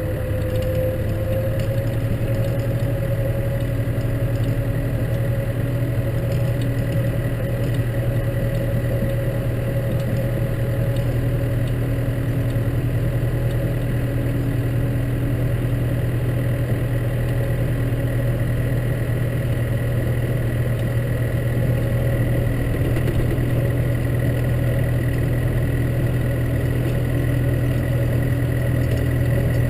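Case tractor's diesel engine running steadily. Its pitch settles after a rise in the first second or two, then holds level.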